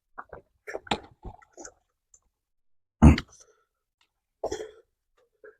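Close-up eating sounds of roasted cicadas being chewed: a run of short crunches and clicks with gaps between them, the loudest a single sharp crunch about three seconds in.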